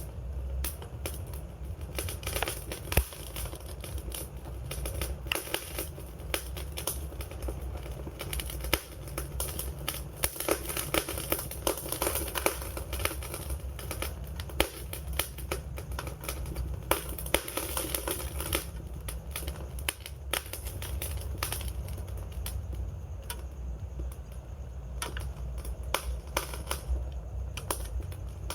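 Wood fire crackling: many irregular sharp snaps and pops over a low steady rumble.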